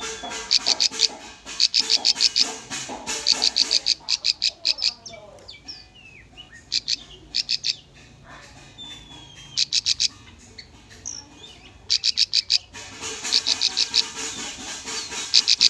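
Bar-winged prinia (ciblek) song: bursts of rapid, sharp high notes repeated several times, with short pauses and softer chirps between them.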